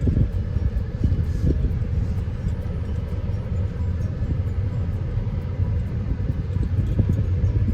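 Steady low rumble of a car driving slowly, heard from inside the cabin: road and engine noise.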